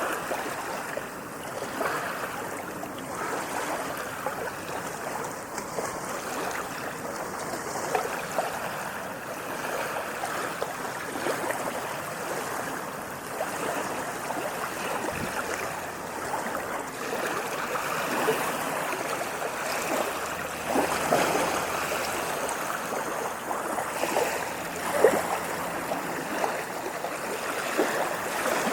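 Water splashing and burbling steadily, a continuous wash of small splashes.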